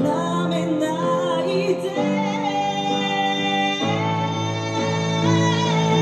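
Woman singing long held notes, wavering at first, over acoustic accompaniment, with the chord changing about two seconds in and again near four seconds.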